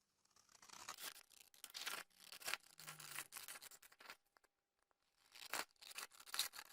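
Scissors cutting strips of coloured cardstock: a run of crisp snipping and slicing strokes, a pause about four seconds in, then more cutting.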